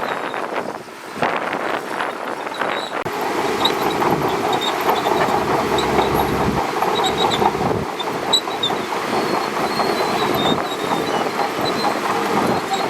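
Shantui DH17C2 crawler bulldozer running and moving, its steel tracks clattering over the engine's rumble, louder and denser from about three seconds in.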